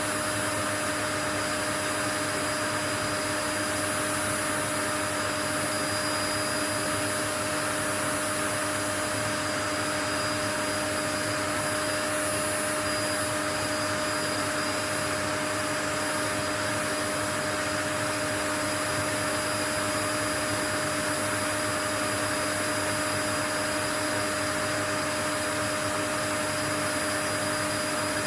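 Continuous white noise: an even, unchanging hiss with a few faint steady tones running through it.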